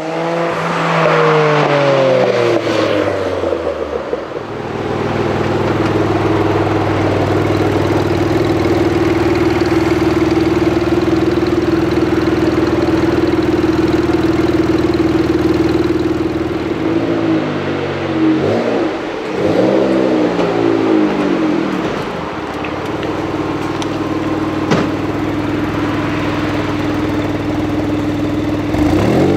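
Noble M12 GTO-3R's twin-turbo V6 engine: the revs fall away at the start, then it runs steadily at a constant pitch. A little past halfway it is blipped about three times in quick succession, and it rises again near the end.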